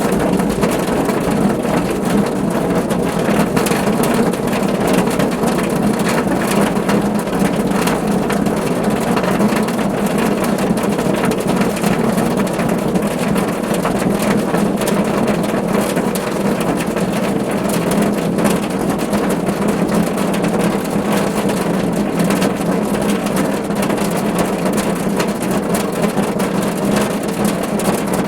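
Steady rain drumming on a car roof, heard from inside the car: a dense patter of drops over a low, even rumble.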